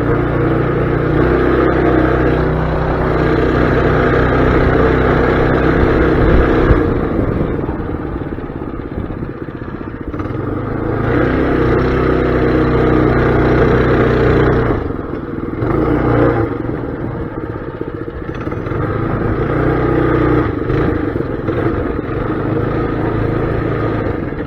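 Mini bike's small engine running as it is ridden, its speed rising and falling with the throttle. It runs hard for the first several seconds, eases off, then opens up again twice more, with a short blip in between.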